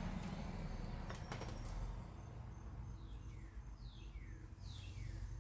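A bird calling in the second half: three short notes, each sliding down in pitch, over a low steady hum.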